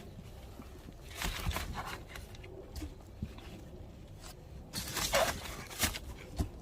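Rustling, scraping and tearing noises in two main bursts, with a few dull thumps, from hands packing conifer saplings.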